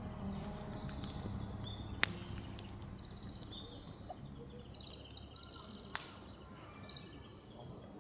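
Small birds chirping in short repeated phrases over a low steady rumble, with two sharp cracks, one about two seconds in and one about six seconds in.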